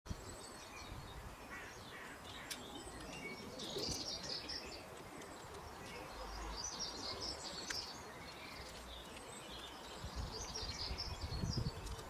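Small birds chirping and twittering in short bursts every few seconds over a low background rumble, with a few sharp ticks.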